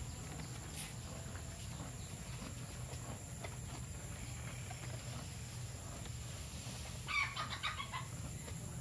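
A bird calling, a quick run of short repeated notes lasting about a second, near the end, over a steady low rumble.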